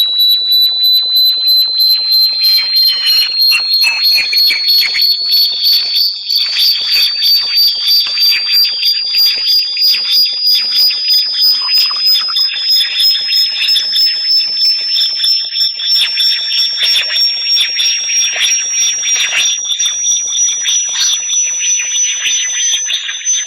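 Electronic bat-repellent tone: a high, piercing whistle that glides slowly upward, pulsing rapidly, over fainter warbling electronic tones and fine clicking.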